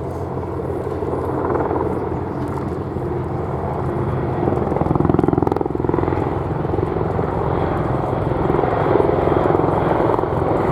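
Boeing AH-64E Apache attack helicopters flying by: a steady drone of rotor blades and turbine engines with a fast rotor beat. It grows louder about halfway through and stays loud.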